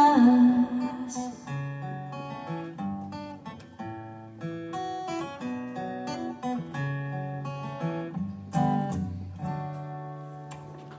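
Acoustic guitar playing the song's instrumental ending, separate notes picked and left to ring, growing quieter toward the end.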